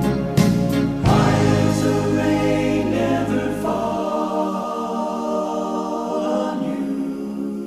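Gospel-style song music with sustained choir-like vocal chords over the band. The bass drops out about four seconds in, leaving held chords that thin out toward the end.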